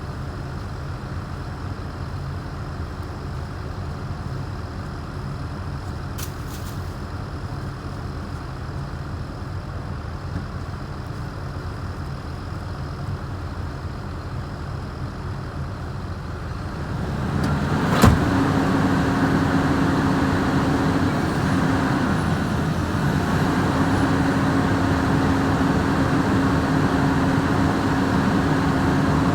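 Heavy diesel machinery engine running steadily. About seventeen seconds in it builds to a louder, heavier run, as under load, with a single sharp crack just after, then holds at the higher level with a steady hum.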